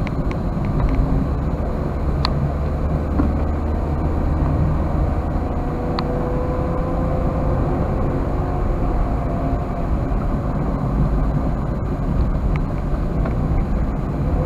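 Toyota Wigo driving at a steady, slow speed: an even low rumble of engine and road noise, with a few light clicks.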